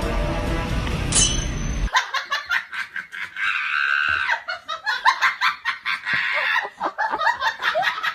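Background music stops abruptly about two seconds in, followed by people laughing in quick, repeated bursts.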